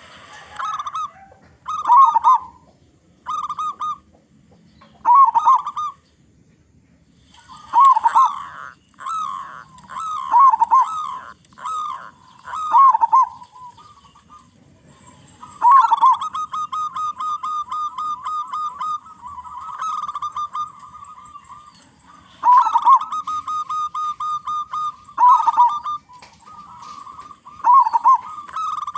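Zebra doves (perkutut) cooing: short phrases of coos repeated every second or two, several running on into a rapid, evenly pulsed rolling trill, the longest lasting about six seconds in the middle. Calls overlap at times, as of more than one bird.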